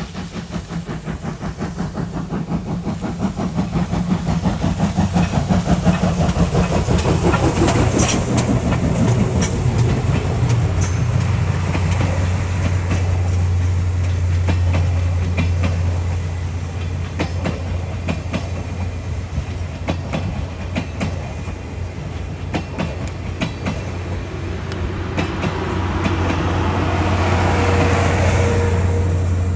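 A train running on the rails: quick rhythmic clattering over the rail joints for about the first twelve seconds, then a steady low drone that holds to the end.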